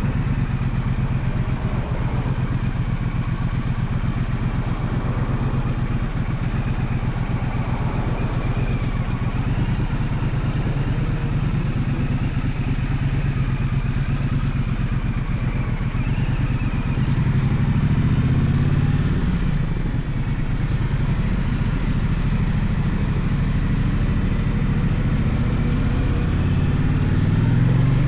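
Gaokin GK1200 motorcycle engine running under way, a steady low rumble that swells as the rider opens the throttle about two-thirds of the way through and again near the end.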